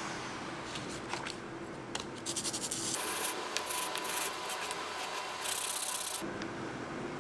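Drill press running with a homemade sandpaper drum, a workpiece pressed against the spinning paper so that it rasps in uneven strokes from about two seconds in until just after six seconds, over the machine's steady hum.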